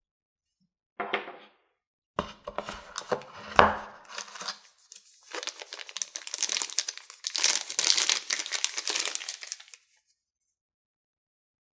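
Packaging being handled and unwrapped: a few knocks and clicks, the loudest a little past three seconds in, then several seconds of crinkling wrapping being pulled and crumpled, which stops about two seconds before the end.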